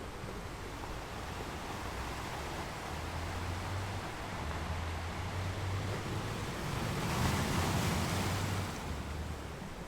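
Ocean waves washing on a shore, a steady surf hiss and low rumble with one wave swelling louder about seven seconds in. Some wind on the microphone.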